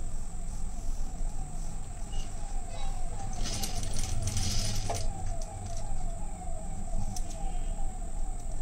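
Sewing machine running steadily, stitching a seam with an even, repeating rhythm. A brief rustle of handled cloth comes about halfway through.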